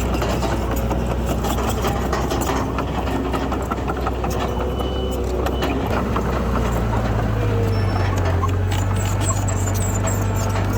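Diesel engines of heavy earthmoving machinery running steadily. A second, higher engine note comes in about six and a half seconds in.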